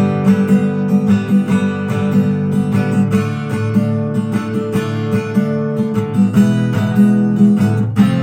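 Acoustic guitar strumming chords in a steady rhythm, with a last strong strum near the end.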